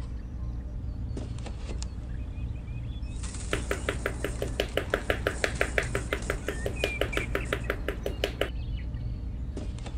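A small hammer tapping rapidly on a wooden craft stick, driving it upright into sand. About six light, even taps a second start about three and a half seconds in and stop about a second and a half before the end.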